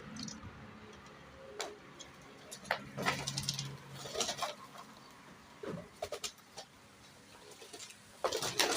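Pigeons moving about: scattered sharp flaps and clicks, with a quick flurry about three seconds in and another near the end.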